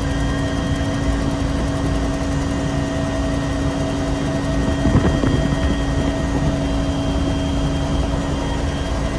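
Bell UH-1 Huey helicopter running, a loud steady turbine-and-rotor drone with constant pitch, with a brief louder swell about five seconds in.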